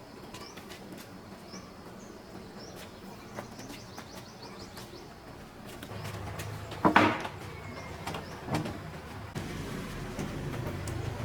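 Faint high chirps over a quiet background, with a sharp knock about seven seconds in and a lighter knock about a second and a half later.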